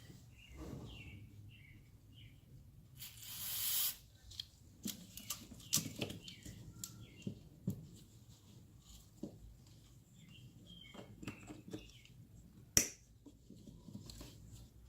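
Scattered clicks and taps of car parts being handled, with a rising hiss about three seconds in that stops abruptly and one sharp click near the end. Small birds chirp now and then in the background.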